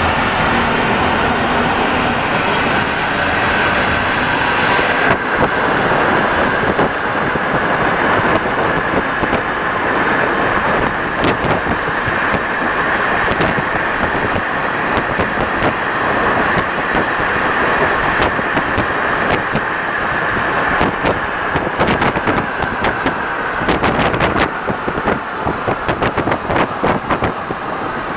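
Rubber-tyred Alstom NS-74 metro train running, a steady rolling noise with a high whine over it. The whine fades out about three-quarters of the way through, leaving a run of clicks and knocks.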